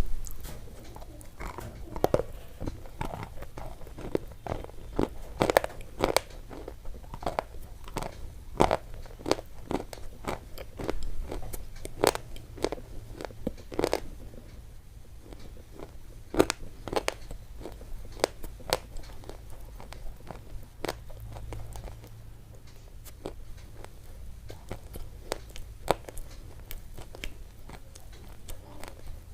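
Close-miked crisp crunching: irregular crunches and sharp clicks, sometimes several a second and sometimes spaced out, over a faint low hum.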